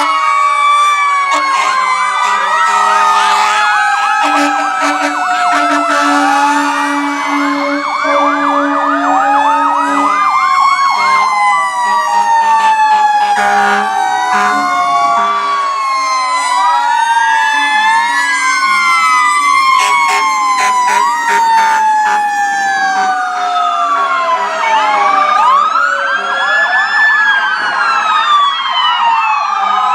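Several fire apparatus sirens sounding at once, slow rising-and-falling wails overlapping with quicker sweeps. Steady low horn tones sound for several seconds near the start.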